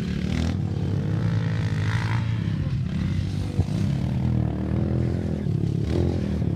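Dirt bike engine running, its pitch rising and falling as the throttle changes, with one sharp tick near the middle.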